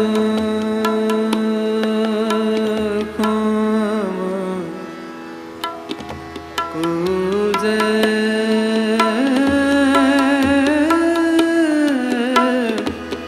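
Sikh kirtan in raag Malaar: long held, gliding sung notes over a harmonium's steady tones, with tabla strokes keeping time. The music thins out about five seconds in, then the voice rises and holds a higher note before falling back.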